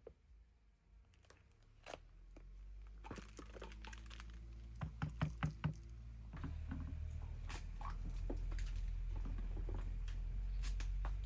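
Scattered knocks and crackling handling sounds, with a quick run of about five sharp knocks in one second about halfway through. Under them runs a low steady rumble that grows louder after the middle.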